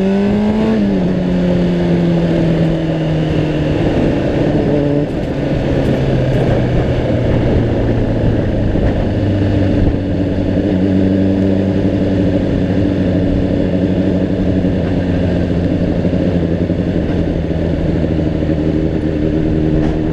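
Honda CBR600RR's inline-four engine running under way, with a broad rush of wind noise. The revs rise briefly at the start, fall off about a second in, drop again around five seconds in, then hold a steady cruising note.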